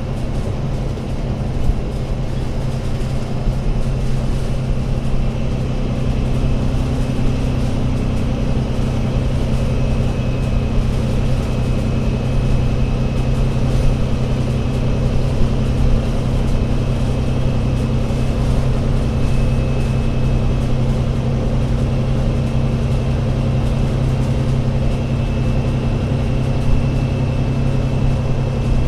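Diesel engine of an Alexander Dennis Enviro500 MMC Euro 6 double-decker bus running steadily with a deep hum, its pitch rising slightly about six seconds in. A faint high whine runs alongside it.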